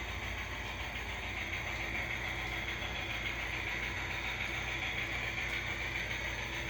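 Small electric motor of a toy train running steadily along its track, a high whine that wavers slightly in pitch over a low hum.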